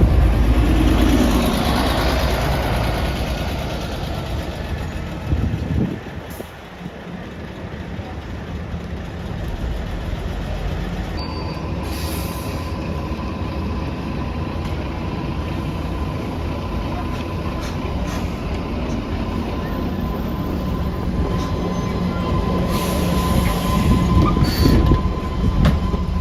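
Scania Omnidekka double-decker bus heard from inside while it drives: a continuous engine and road rumble, loud at first, dropping sharply about five seconds in, then running steadily with a thin steady whine from about eleven seconds and building up again near the end.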